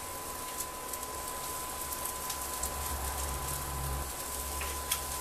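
Fried rice sizzling steadily in a wok on an induction hotplate while it is stirred, with small clicks of the wooden spoon against the pan.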